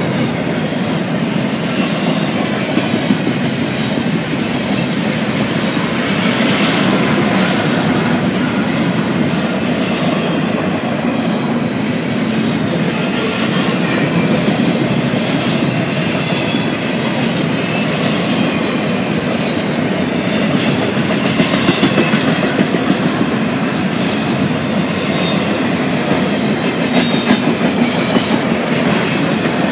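Train cars rolling past close by: a steady clatter of steel wheels on rail, with a few brief high-pitched wheel squeals.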